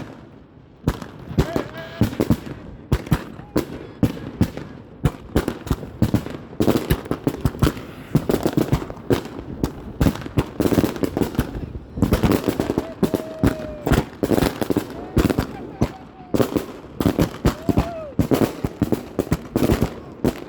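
Large-bore fireworks going off in rapid succession: a dense string of sharp bangs and crackling pops, with a short lull about half a second in and a few brief rising-then-falling tones.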